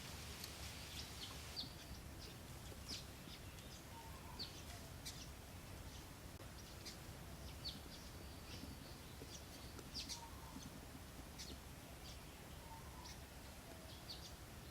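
Birds chirping faintly: scattered short, high chirps a few times a second, with now and then a lower call, over a steady low background rumble.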